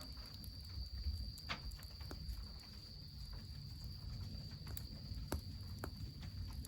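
Wood fire crackling with scattered sharp pops, over the low rush of piped mountain spring water, with a cricket trilling steadily on one high note.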